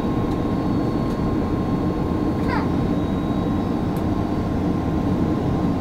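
Steady cabin noise inside an Airbus A330-300 airliner: an even, unbroken rumble of engines and airflow, with a thin steady whine above it. A brief faint high chirp comes about two and a half seconds in.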